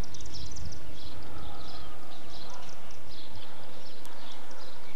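Small birds chirping over and over in short, high bursts, with a low rumble on the microphone in the first couple of seconds.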